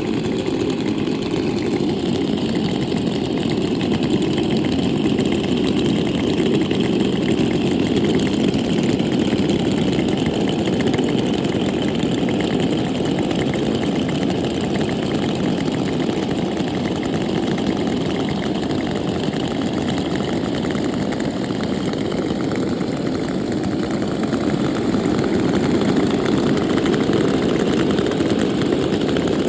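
Small two-stroke chainsaw engine idling steadily.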